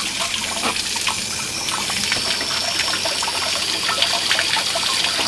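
Water running and splashing out of an RV water heater's drain opening as a pressurised flushing wand sprays around inside the tank, with steady irregular spattering. A faint thin high whine joins about two seconds in.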